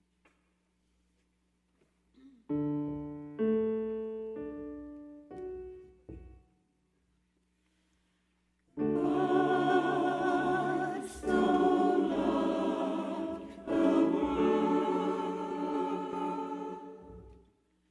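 A few piano chords sounding and dying away, then after a short pause a choir singing in phrases with brief breaks between them.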